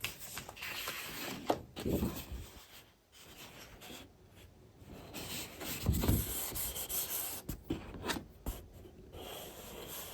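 Scrapbooking paper and supply packaging rustling, sliding and crinkling as it is handled and sorted, in irregular swishes with a few small taps.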